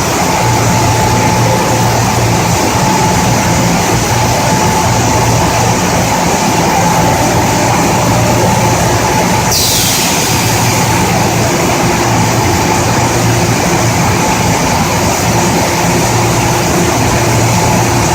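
Industrial flat-glass washing machine running: a steady mechanical din with a low hum and a thin steady whine. About nine and a half seconds in, a loud hiss starts suddenly and drops in pitch, then carries on at a lower level.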